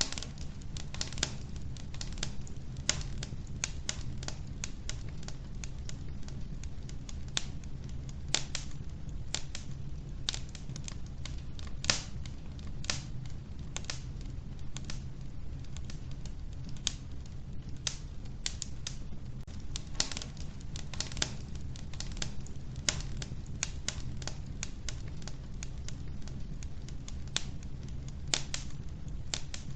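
Wood fire crackling in an old wood-burning stove: irregular sharp pops and snaps, several a second, with a few louder ones, over a steady low rumble.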